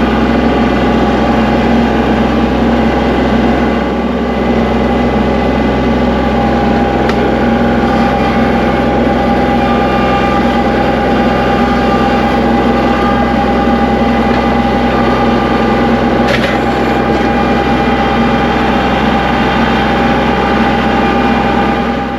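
An engine running steadily at a constant speed, with the sound cutting off abruptly at the end.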